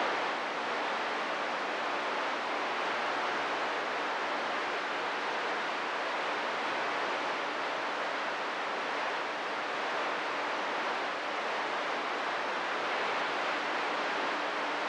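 Steady static hiss from a CB radio receiver with the squelch open on a clear channel, no one transmitting, with a faint steady hum underneath.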